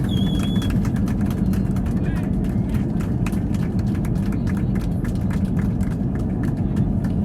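Airbus A321 cabin noise, a steady low rumble, with many passengers clapping over it and a whistle near the start.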